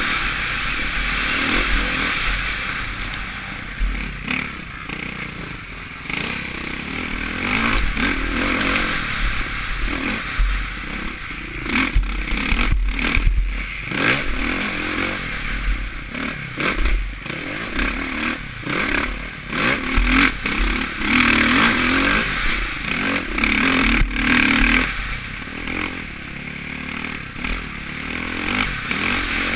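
Suzuki RM-Z450 motocross bike's single-cylinder four-stroke engine, revving up and falling away again and again as it is ridden hard, heard from a helmet camera with wind rumble on the microphone. A cluster of sharp clattering knocks comes about twelve to fourteen seconds in.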